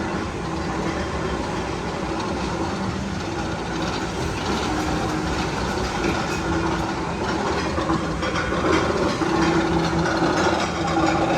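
Steady train-like rumble and clatter on rails, with a held hum over it and scattered clicks, getting louder over the last few seconds.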